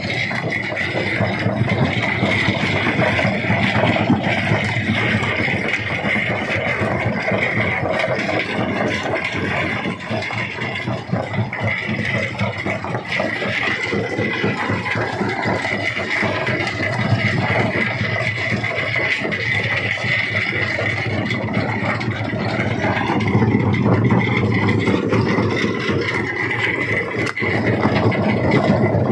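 Jaw rock crusher running and breaking stone: a loud, continuous clatter of many small knocks over a low rumble, with a steady high tone held throughout.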